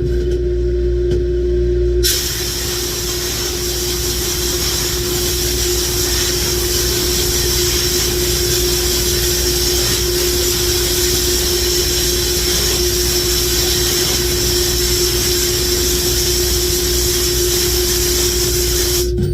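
Glass-bead blast cabinet nozzle blasting engine valves: a loud, steady hiss of compressed air and glass bead that starts sharply about two seconds in and cuts off just before the end, over a steady machine hum with a single held tone.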